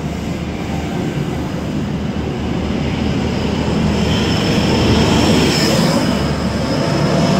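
InterCity 225 express train running through the station: a dense steady rumble of wheels and cars, with a thin high-pitched whine that swells toward the middle.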